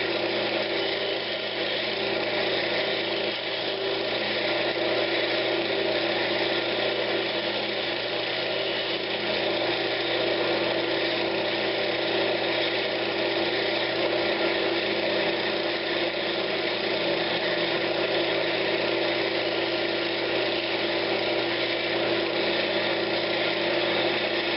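Wood lathe running steadily while a turning tool cuts a pine cabinet knob, taking its bottom down a touch; a constant motor hum under an even cutting hiss.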